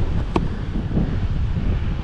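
KTM 300 two-stroke enduro motorcycle engine running at low revs, with wind buffeting the microphone. A single sharp knock about a third of a second in.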